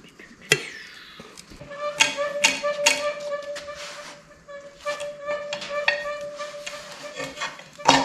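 Sharp metal clicks and knocks of tools prying at the valley cover of a 6.0 L LS engine, over a steady, flute-like whistling tone that starts about a second and a half in and holds nearly to the end.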